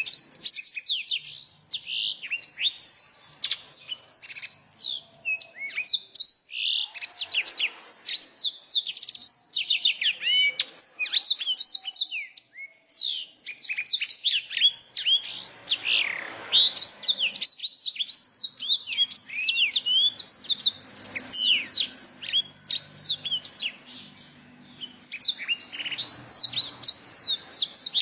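Small songbird singing a fast, varied song of sharp high sweeping notes and trills in quick phrases, with short pauses between bursts.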